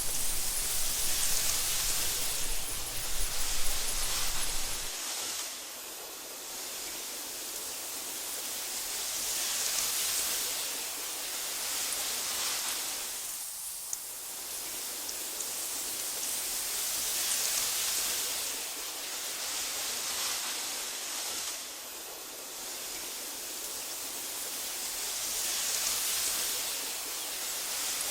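Wind blowing through tall meadow grass: a steady hiss that swells and eases about every eight seconds. A low rumble underneath stops about five seconds in.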